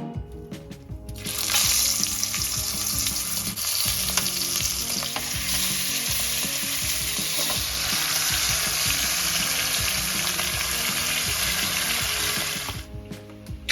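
Food frying in a hot pan, a steady loud sizzle that starts about a second in and cuts off shortly before the end.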